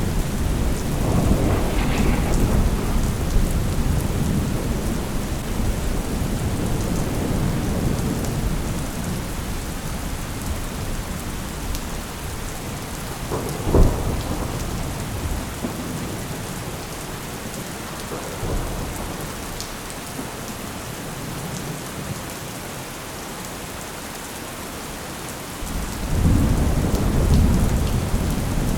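Steady heavy rain with rolling thunder. The rumble swells near the start, a sharp thunderclap cracks about halfway through, and the rumble builds again near the end.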